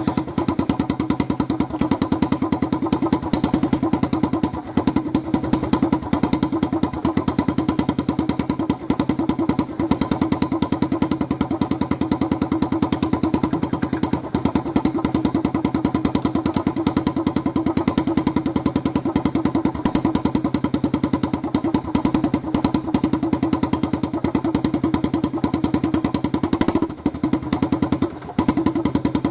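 Honda TRX90 ATV's small single-cylinder four-stroke engine running steadily through an open exhaust, the muffler replaced by a bare exhaust tip. A rapid, even run of exhaust pulses with a couple of brief dips near the end, and a weird sound to it.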